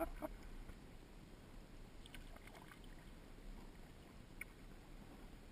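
Faint water sounds around a kayak on the water, with a few small clicks or splashes: one at the start, a few about two seconds in, and one near the end.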